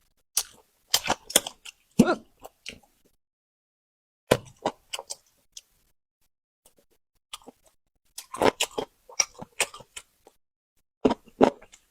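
Close-miked chewing and biting of food, wet crackling and smacking that comes in short clusters separated by silent pauses.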